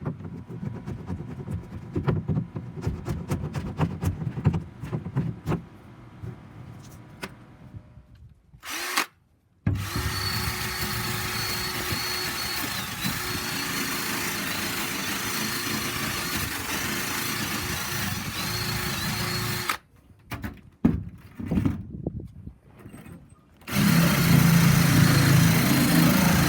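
A run of sharp, irregular clicks and knocks of hand work on nails, then an electric power tool running steadily with a constant whine for about ten seconds. It stops, there are a few more knocks, and it starts again louder near the end.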